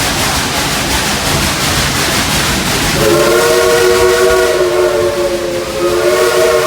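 Dollywood Express steam locomotive hissing steam, then about three seconds in its chime whistle blows a long, steady multi-note chord that lasts to the end.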